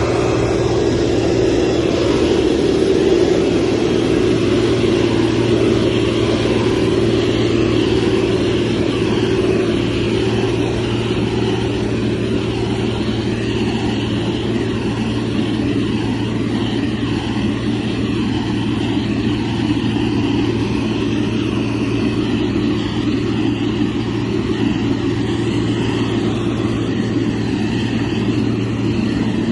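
Motor grader's diesel engine running steadily with a constant low drone.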